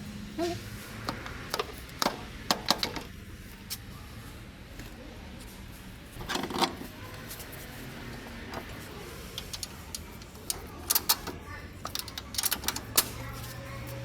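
Scattered sharp clicks and metallic clinks, in small clusters, like small metal objects or keys being handled, over a faint steady low hum.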